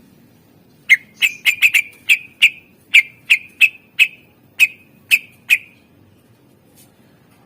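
Cucak ijo (green leafbird) calling a run of about fourteen short, sharp whistled notes: quickly bunched at first, then evenly spaced at about three a second, stopping a little past halfway.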